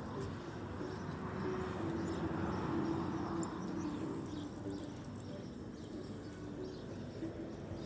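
Pigeon cooing in short, low repeated notes over a steady rush of noise that swells between about one and four seconds in.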